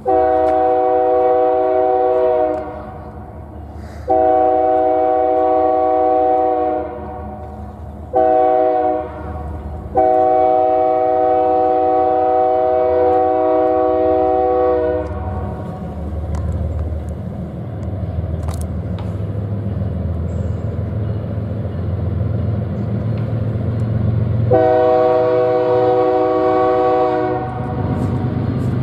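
Diesel locomotive's multi-chime air horn sounding the grade-crossing signal: two long blasts, a short one and a long one, followed by the low rumble of the passing train and another long horn blast near the end.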